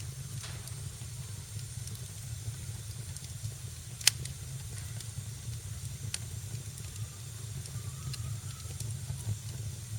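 Wood fire crackling in a fireplace: a steady low rumble and hiss with scattered sharp pops, one much louder pop about four seconds in.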